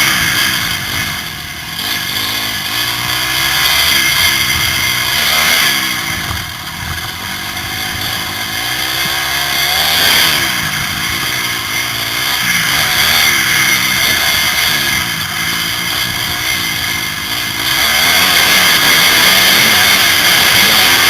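Motocross bike engine revving hard and repeatedly rising and falling in pitch as the bike accelerates, shifts and backs off around the track, heard from the rider's helmet camera.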